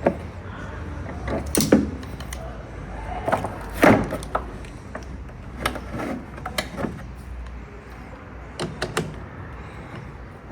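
Hand tools knocking and clinking on metal car parts: a string of irregular clicks and knocks, the loudest about four seconds in, over a low steady rumble.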